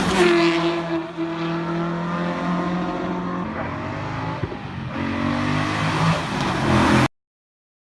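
Rally car engine running hard in a steady gear, then easing and revving up again with rising pitch, with a light tyre squeal. The sound cuts off suddenly about seven seconds in.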